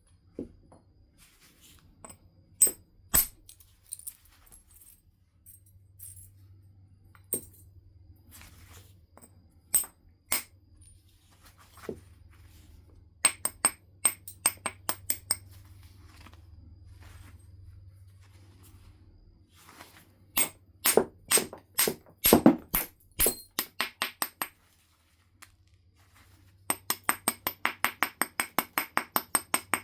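Flint nodule being knapped: sharp, ringing clicks of a billet striking the stone, single or in quick clusters. Near the end comes a fast, even run of about three or four light strokes a second.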